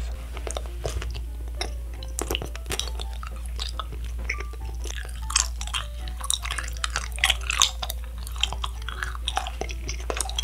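Close-miked chewing of a Nik-L-Nip wax bottle candy: many quick wet clicks, smacks and squishes as the wax is bitten and worked in the mouth.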